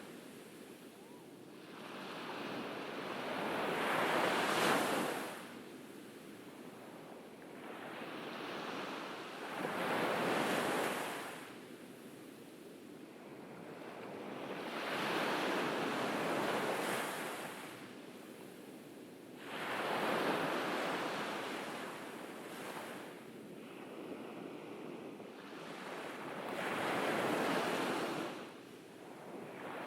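Ocean waves breaking on a beach. Five slow surges of surf each build, crash and wash back, about one every six seconds.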